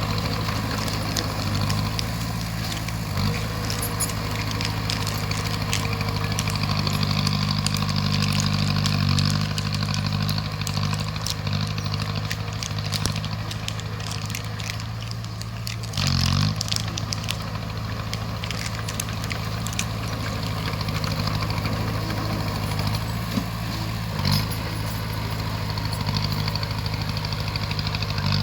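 Bulldozer's diesel engine running steadily, with a few short clanks, the loudest about halfway through.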